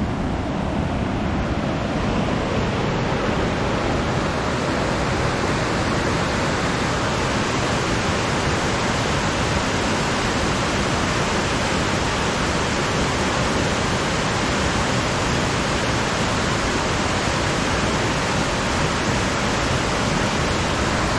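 Steady rush of water, a river running hard over rocks: an even, unbroken roar with no change through the whole stretch.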